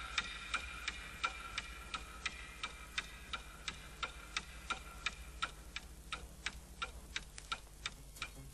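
A clock ticking steadily, about three sharp ticks a second, with a faint held synth tone fading away during the first few seconds.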